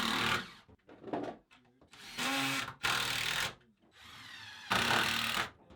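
Power drill running in several short bursts of about half a second each, with pauses between; one burst winds up in pitch before a loud spell near the end.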